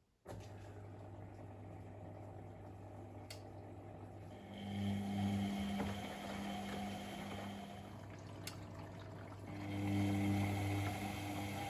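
Pump of a Privileg Sensation 952 S top-loading washing machine switching on abruptly and running with a steady low hum, its water noise swelling louder twice.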